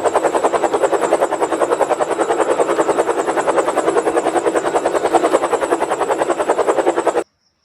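Helicopter rotor sound effect, a steady rapid chopping that cuts off abruptly near the end.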